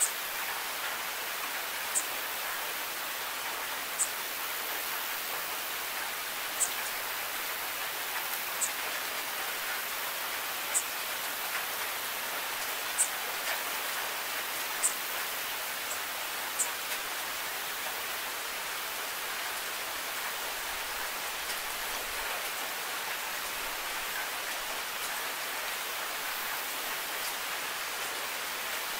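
Steady rain falling, an even hiss, with a sharp tick about every two seconds through the first half or so.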